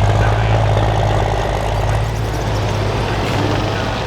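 Diesel pickup truck engine running with a steady low drone that eases slightly about halfway through.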